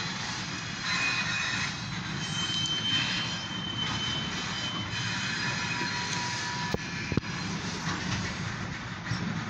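Covered grain hopper freight cars rolling past on the rails: a steady rumble of wheels, with a few thin high squeals from the wheels and two sharp knocks close together about seven seconds in.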